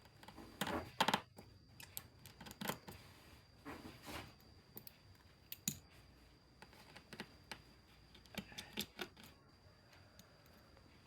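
Irregular small clicks, taps and short scrapes of hand tools working on a Xiaomi Mi Play phone's parts as it is taken apart, over a faint steady high whine.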